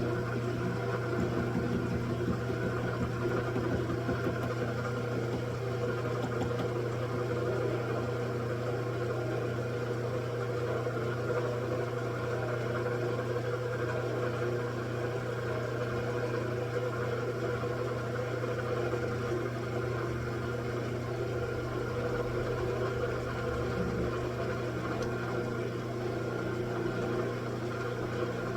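Machine tool running steadily, a constant motor hum with no distinct cuts or knocks standing out.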